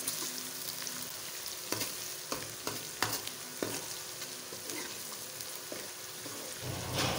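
Chopped onions with crushed ginger and garlic sizzling in hot ghee in a steel karahi, frying to take away the raw taste of the ginger and garlic. A steel ladle stirs them, clinking and scraping against the pan several times.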